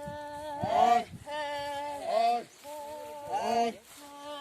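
Voices singing a slow song of long held notes, each phrase entering with a swooping glide before settling on a steady pitch, with short breaks between phrases.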